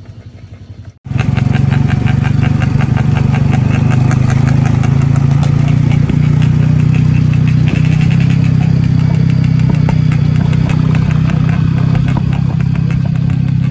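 Motorcycle engine running loud and steady at an even pitch, starting abruptly about a second in after a quieter moment.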